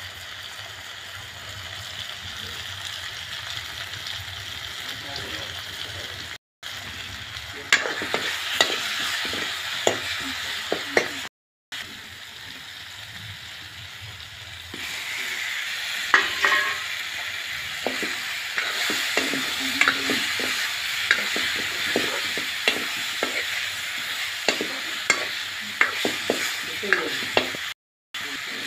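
Tomato-onion masala sizzling in an iron kadhai, with a metal ladle scraping and tapping the pan. About halfway through, whole ripe mangoes go in and the frying gets louder, with frequent sharp scrapes and clicks. Three brief silent gaps break the sound.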